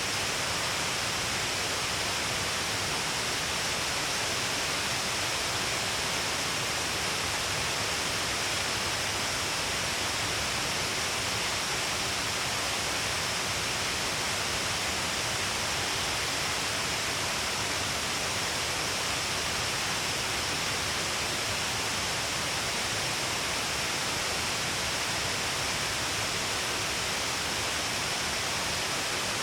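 Shiraito Falls, many strands of water pouring down a long cliff face, making a steady, even rush of falling water.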